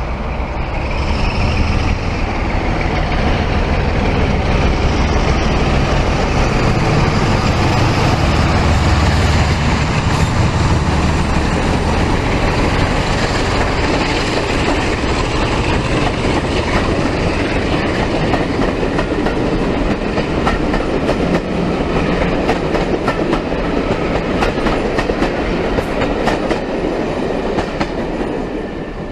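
A train running along the track: a low engine rumble, strongest in the first third, under a steady rush, with the wheels clattering over rail joints more and more in the second half. The sound fades near the end.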